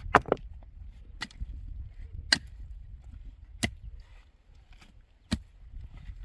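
Sharp, single knocks of a hand tool striking a hard material: a quick double strike, then one every second or so, six in all, the last about five seconds in.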